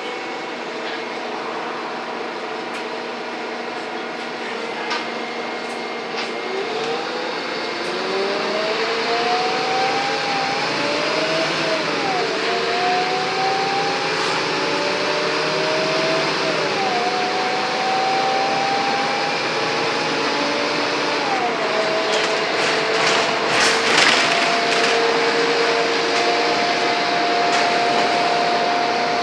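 Scania N230UD double-decker bus engine accelerating under load. Its vacuum-cleaner-like 'Hoover' whine rises through the gears, drops sharply at each of three gear changes, then holds steady. A brief rattle comes in near the end.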